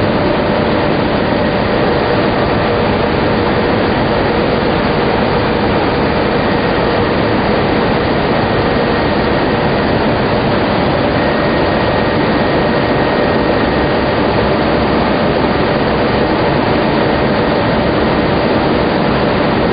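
Tobacco lamina flash dryer running: a steady, loud machine din of blowers and rushing air, with a faint steady hum through it.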